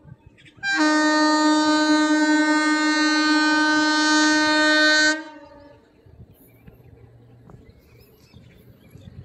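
Horn of an Indian Railways WAG9H electric locomotive sounding one long, steady blast of about four and a half seconds, starting near the beginning and cutting off sharply. Only faint background sound follows.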